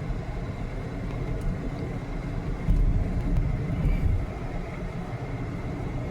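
Road and engine noise inside a moving car's cabin: a steady low rumble that grows a little louder for about a second from about three seconds in.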